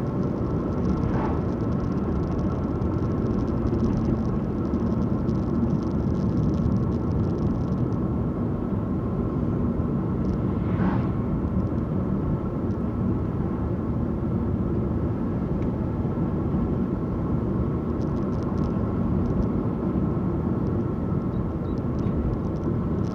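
Steady road and engine noise inside a moving car's cabin: a constant low rumble with no change in pace.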